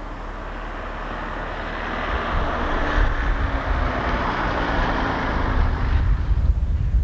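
A car on the move: road and engine noise that swells over several seconds and eases off near the end, with a low rumble building beneath it.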